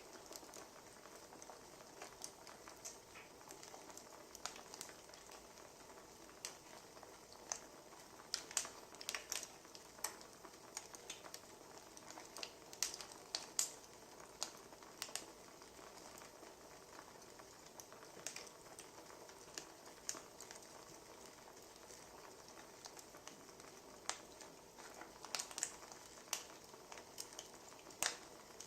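Wood fire crackling: a low steady hiss with irregular sharp pops and snaps, thicker in clusters about a third of the way in and again near the end.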